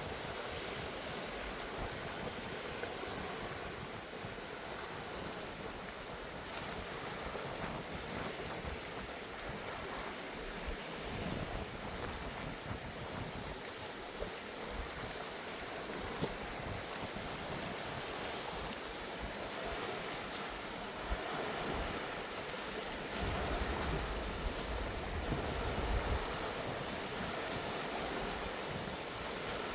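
Sea waves washing in steadily, with wind buffeting the microphone in low gusts about a third of the way in and again near the end.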